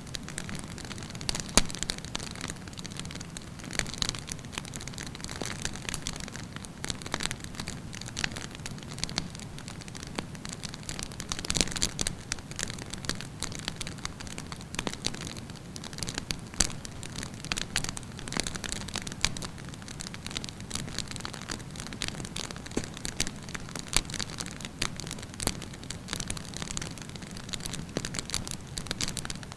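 Wood campfire burning, with a steady hiss and a constant run of sharp, irregular pops and crackles from the burning logs, a few louder pops among them.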